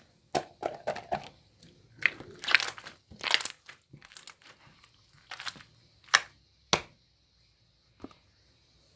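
Irregular crinkling and crunching: a run of sharp crackles and rustles, dense at first, then fewer and more spaced out, the last one near the end.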